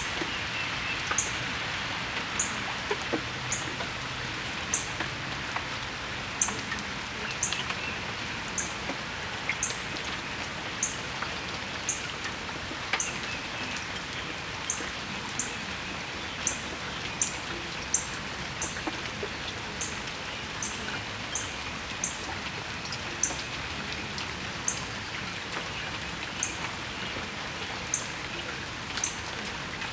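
Steady rain falling on a patio and its surroundings, an even hiss. Over it, a bird gives a short, high chirp again and again, about once a second.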